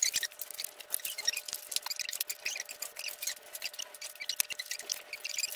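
Plastic magnetic building tiles being handled and clicked together: a dense, irregular patter of small sharp clacks.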